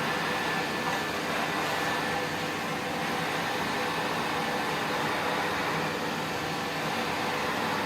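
Vacuum cleaner running steadily: an even motor drone with a faint high whine, holding the same level throughout.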